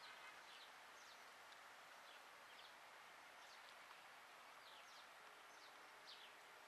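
Near silence: faint outdoor background hiss with scattered short, high, falling chirps from distant birds.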